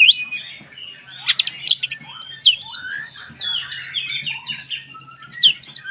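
Oriental magpie-robin (kacer) singing: a fast, varied run of sharp whistles, chirps and gliding notes, with a quick burst of very short clicking notes about a second and a half in.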